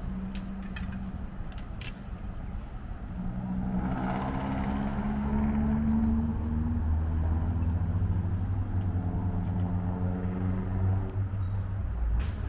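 A vehicle engine running steadily, growing louder about three seconds in.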